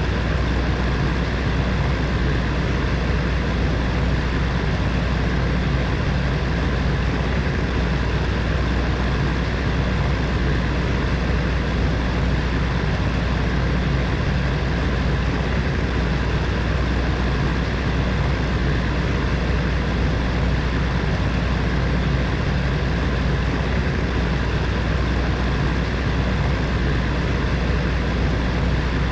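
Heater fan running steadily: a constant whir of moving air over a low, even hum.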